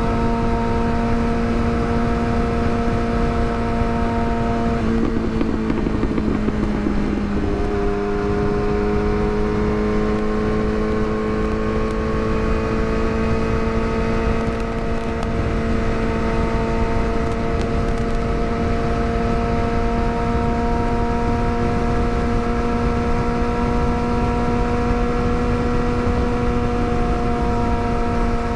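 Yamaha R6 inline-four motorcycle engine running at steady cruising revs, over wind rush. About five seconds in the pitch dips and settles lower, as at a gear change, then the revs climb slowly as the bike gathers speed.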